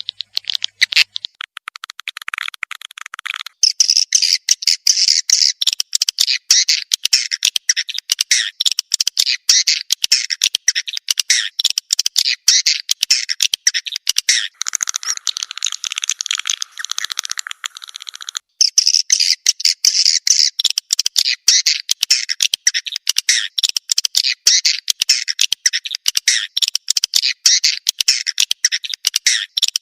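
Swiftlet lure sound: a dense, rapid twittering of swiftlet chirps, many to the second, used to call swiftlets into a nesting house. It breaks briefly about a second in and again near the middle, and twice a lower, buzzier twitter joins in for a few seconds.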